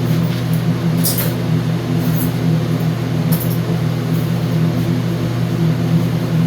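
A steady low mechanical hum, with a few faint short ticks about a second in and again near two and three seconds.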